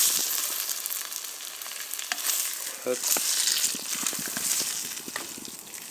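Eggs and buttered bread slices frying in a pan: a steady sizzle with small scattered crackles and pops.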